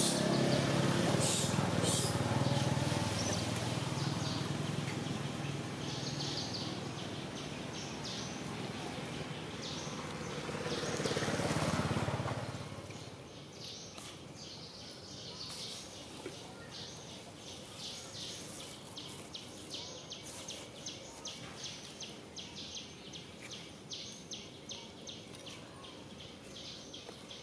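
Loud rumbling outdoor noise that swells once and dies away about halfway through, followed by small birds chirping in quick short notes, several a second.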